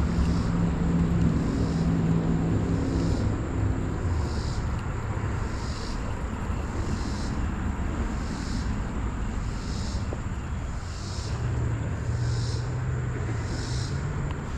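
Outdoor creek ambience: a steady rush of flowing water under a distant engine hum. The hum fades after about four seconds and returns near the end, while a high pulsing sound repeats a little more than once a second.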